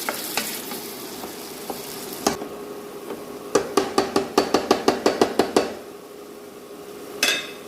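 Aromatics and dried spices sizzling in oil in a pan while a spatula stirs, knocking against the pan in a quick run of about a dozen strikes in the middle, with one more scrape near the end.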